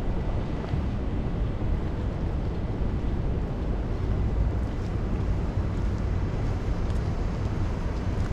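Steady low rumble of city traffic and wind on a rainy street, at an even level.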